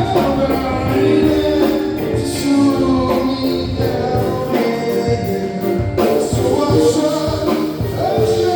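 Live band playing with sung vocals over a steady beat.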